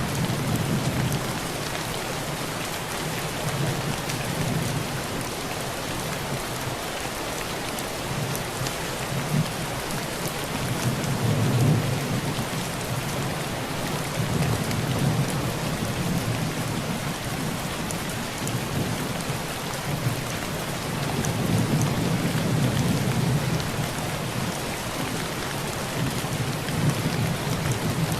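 Heavy rain drumming steadily on a tin roof, with low rolls of thunder that swell and fade about three times.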